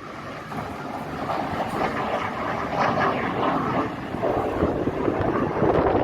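Military jet aircraft approaching to land, its engine noise growing steadily louder.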